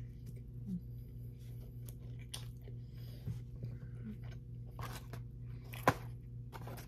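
Close-up chewing of a bite of fried chicken sandwich: soft crunching and wet mouth clicks over a steady low hum, with one sharp click about six seconds in.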